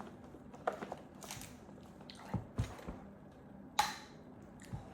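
Unboxing handling noises from a new camera's box and packaging: scattered rustles, taps and clicks of cardboard and wrapping, with a sharper click about four seconds in.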